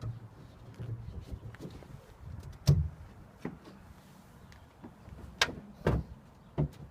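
A few sharp knocks and clunks over a faint low hum, the loudest about two and a half seconds in and a cluster of them near the end.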